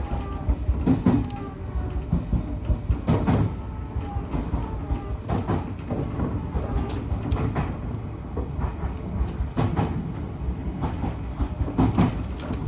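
Odakyu 1000 series electric train running, heard from inside the front car: a steady rumble with wheels clacking over rail joints every second or two, and a faint whine.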